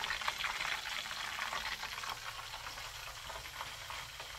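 Chicken pieces frying in hot oil: a steady crackling sizzle.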